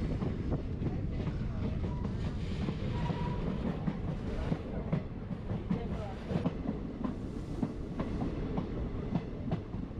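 Passenger train running on the rails: a steady rumble of the wheels and coaches, with irregular clicks and clacks of wheels over the track.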